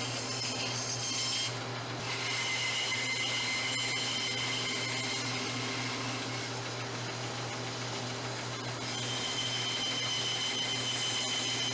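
Band saw running and cutting a leopard wood and birch blank: a steady motor hum with a high whine over it that shifts in pitch a couple of times as the cut goes on, with a brief drop in level about a second and a half in.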